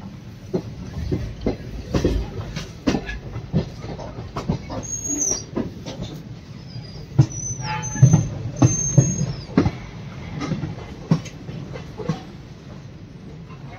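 Passenger train running on the rails: a steady low rumble with the wheels clacking over rail joints, and a few short high wheel squeals between about five and nine seconds in.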